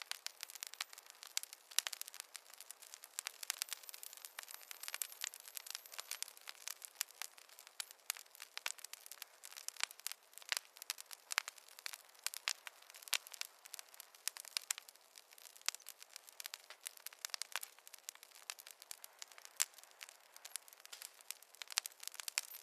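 Wood fire in a fireplace crackling, a steady stream of irregular sharp pops and snaps.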